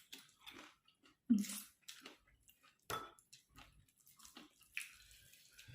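Close-up eating sounds: irregular wet chewing, squelches and mouth clicks of a person eating a meal of rice, dal and greens. A short voiced sound comes about a second in.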